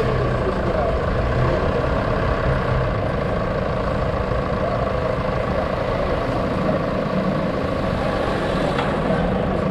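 Steady vehicle engine noise with road and traffic rumble, as heard from a vehicle on the move.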